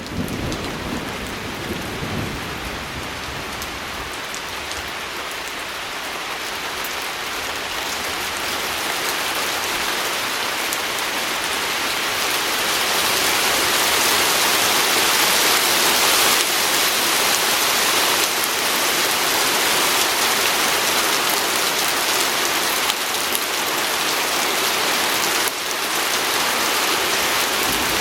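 Steady rain pattering on a window pane. It fades in at the start with a low rumble in the first couple of seconds, then grows gradually heavier until about halfway through and holds steady.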